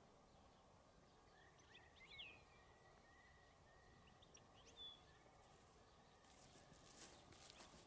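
Quiet outdoor background with faint birdsong: scattered short chirps and a thin whistled note. A few soft clicks or rustles come near the end.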